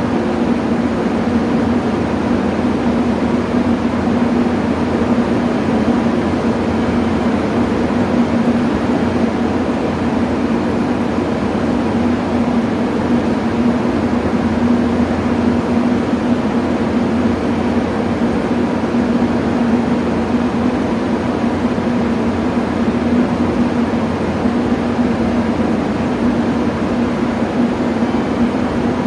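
A JR Kyushu 883 series electric train standing at the platform, its onboard equipment giving a steady hum with one constant low tone.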